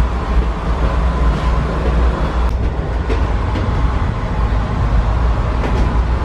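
Steady low rumble of a moving passenger train, heard from inside a closed air-conditioned coach compartment. A faint high hum fades out about two and a half seconds in.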